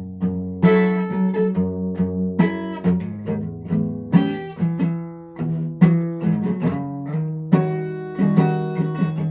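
A guitar playing an instrumental passage, with chords strummed and picked notes ringing between strokes.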